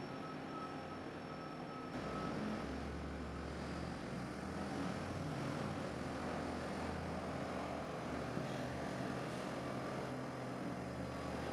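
A large engine running steadily: a low rumble, with a faint high whine at first that stops about two seconds in.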